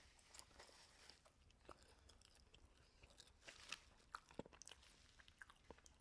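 Faint chewing: a person eating with scattered small mouth clicks, a few more of them from about three and a half seconds in.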